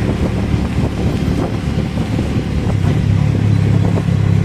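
Car driving on the road: a steady low engine and road hum that grows a little stronger about three seconds in.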